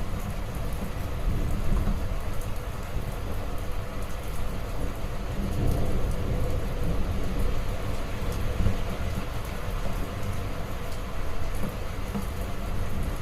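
Heavy rain falling steadily, with a constant low rumble underneath that swells a little around the middle.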